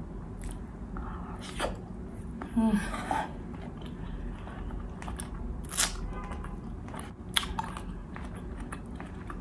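A person chewing and eating beef steak close to the microphone, with scattered wet clicks and crunches, the loudest about three seconds in and again near six and seven and a half seconds.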